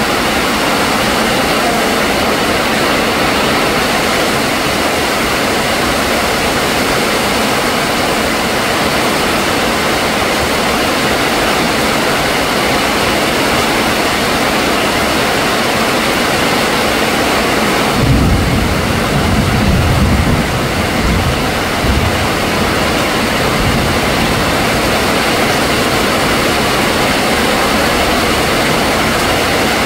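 Heavy rain pouring down in a dense, steady hiss. From about eighteen seconds in, a low rumble swells under it for a few seconds, then eases.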